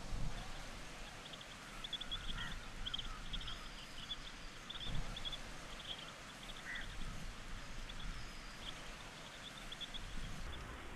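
Birds calling, short high chirps repeating irregularly with a few lower calls, over a faint outdoor background hiss, with a few soft low thumps.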